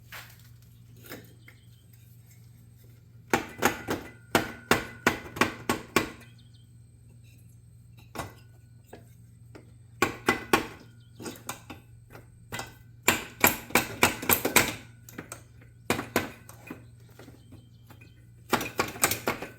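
Hammer tapping on parts of a seized Honda ATC 250R two-stroke engine during teardown. The strikes come in short bursts of several sharp blows, separated by pauses, over a low steady hum.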